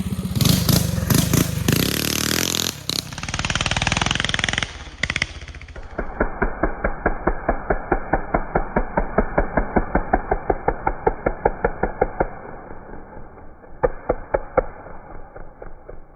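Mini bike's Tillotson 212 single-cylinder engine revving hard. About six seconds in, the sound turns suddenly duller and becomes a slow, even chugging of about five beats a second, which fades near the end with a few sharper knocks.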